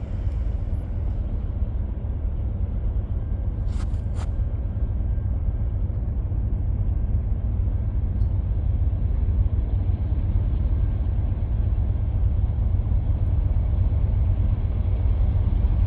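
Low steady rumble of an approaching freight train's diesel locomotives, slowly growing louder, with two sharp clicks about four seconds in.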